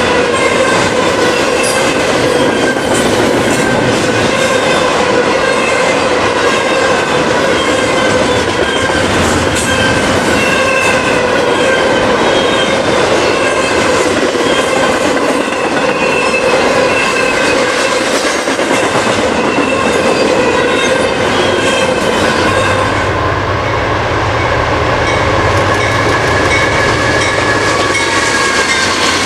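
Double-stack intermodal freight train passing at speed, its steel wheels clacking over the rails with a steady squeal and ring. About three-quarters of the way in, the sound changes to the low rumble of diesel locomotives passing.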